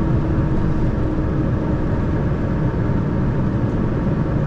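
Steady engine and road drone of a tractor-trailer truck, heard from inside its cab while it drives slowly.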